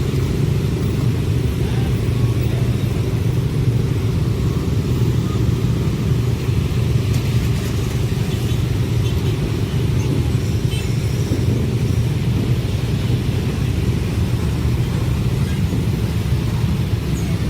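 Train passing close by, a steady low rumble of wheels on rail, with a few faint clicks near the middle.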